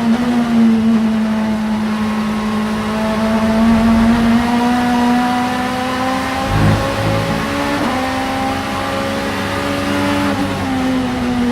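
Vauxhall Vectra Super Touring race car engine running hard at high revs, its pitch climbing slowly under load, with two abrupt pitch changes just under 8 seconds in and at about 10.5 seconds as it changes gear. A brief low thump a little past halfway.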